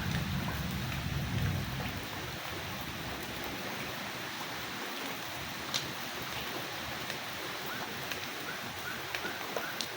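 Steady rain, a continuous hiss of falling water, with a few sharp louder drops about six seconds in and near the end. A low rumble fades out about two seconds in.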